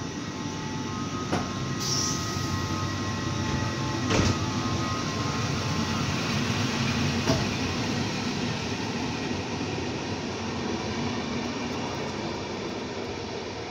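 PKP Intercity passenger coaches rolling past the platform, a steady rumble of wheels on rail with a few sharp clicks about one, four and seven seconds in. The rumble eases slightly toward the end as the last coach passes.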